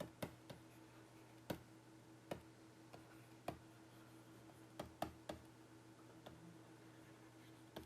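Faint, irregularly spaced clicks and taps, about a dozen, over a steady low electrical hum.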